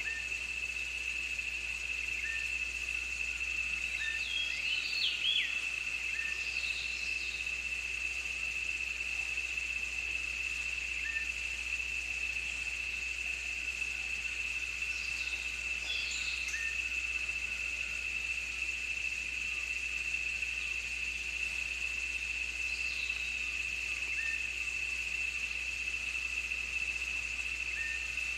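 Insects trilling in one steady, unbroken high pitch, with scattered short bird calls over it, most of them in a cluster a few seconds in and a few more later.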